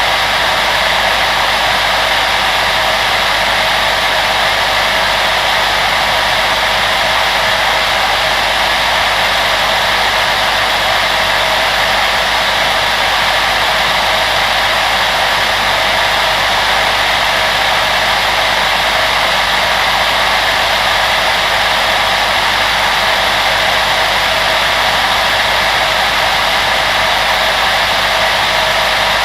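Electric blower appliance running continuously, a steady unchanging whooshing rush of fan-driven air with a faint low motor hum underneath, used as soothing white noise.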